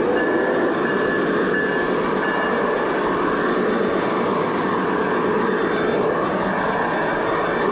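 G-scale model train running steadily along its track: continuous rolling and motor noise heard close up from the moving locomotive.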